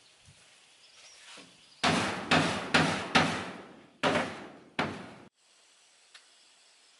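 Six heavy hammer blows in quick succession, each ringing briefly, with a short pause before the last two. The sound cuts off suddenly.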